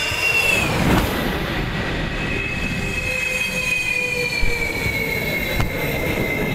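Jet engines of Su-30 fighters whining as the jets pass; the high whine drops in pitch sharply about half a second in, then a second whine slowly falls over a steady rush of engine noise.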